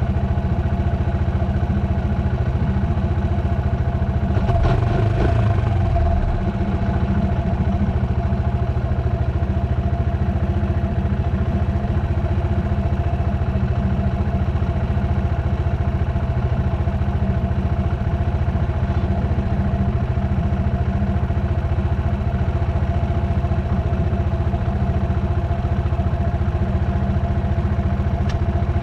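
Dirt bike engine running at a steady speed, its note holding constant, with a brief rattle about five seconds in.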